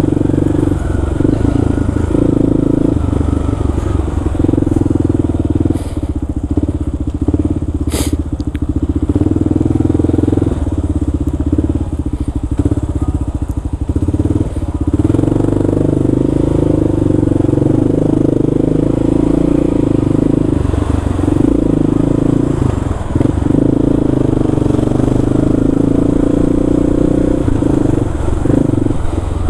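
Kawasaki KLR650 single-cylinder engine running under way, its steady note rising and falling a little with the throttle. A single sharp click about eight seconds in.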